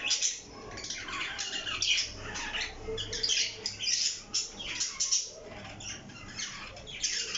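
Parrot squawking: a steady run of short, scratchy calls, one after another.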